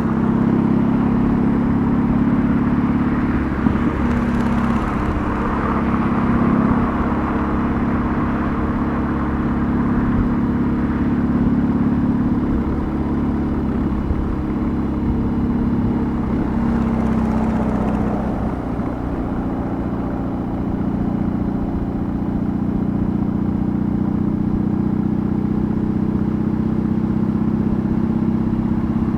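BMW R18's big two-cylinder boxer engine running under way on the road, its exhaust note steady with a few small shifts in pitch as the throttle changes, over wind and road noise.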